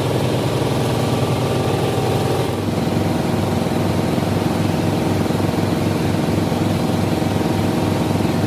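Lathe machine running steadily, with a regular low pulsing hum; its sound changes about two and a half seconds in.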